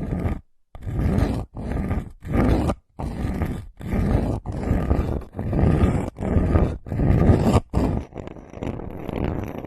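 ASMR trigger sound: a run of short, rough, noisy strokes, about one and a half a second, giving way near the end to a softer steady rustle.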